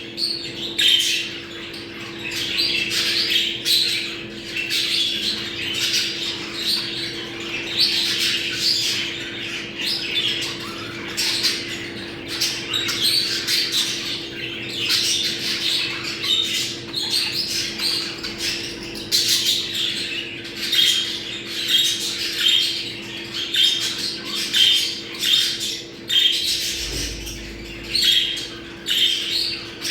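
A group of budgerigars chattering and warbling nonstop, with many short squawks and chirps overlapping. It is the flock chatter played to pet budgies to bring them into breeding condition.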